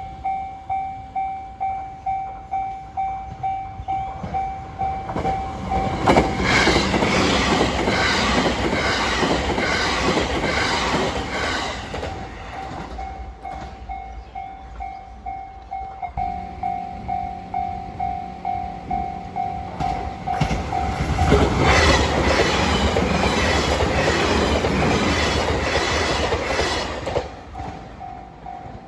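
A level crossing's warning bell dings steadily, about one and a half times a second, throughout. Two electric trains pass over the crossing one after the other, their wheels clattering over the rail joints. The first runs from about five to twelve seconds in, the second from about twenty to twenty-seven seconds.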